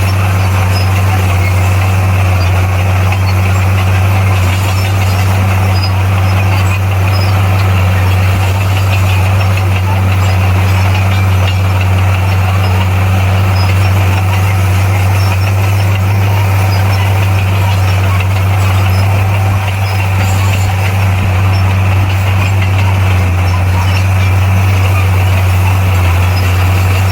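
Bulldozer's diesel engine running with a loud, steady low drone that holds one even pitch throughout.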